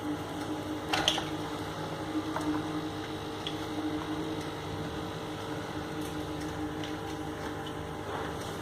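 Aquarium pump humming steadily with water bubbling and splashing, and a single click about a second in.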